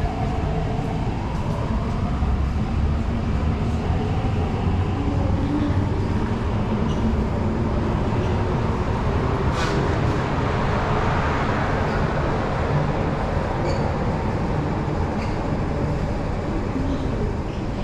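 MTR East Rail Line R-Train, a Hyundai Rotem electric multiple unit, running on the line, heard from on board as a steady rumble with a faint motor whine.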